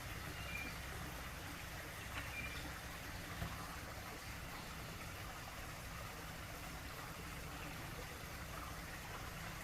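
Steady trickling water with a low rumble beneath it, and two brief high chirps in the first few seconds.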